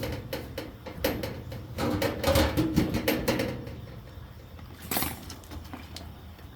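Lid of a metal garbage can being fitted back on, with a run of clanks and scrapes for about the first three and a half seconds, then one sharper knock about five seconds in.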